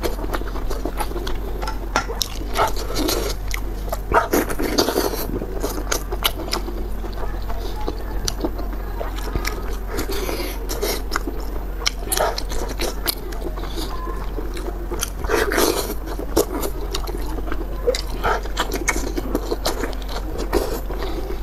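Close-miked wet chewing of greasy offal, intestine and stuffed stomach, with irregular squelches, lip smacks and mouth clicks.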